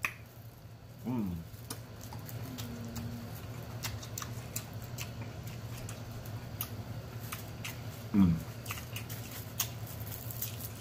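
Close-miked chewing of a mouthful of pizza, with wet lip-smacking and many small mouth clicks. Two short falling "mmm" hums of enjoyment come about a second in and again near the end.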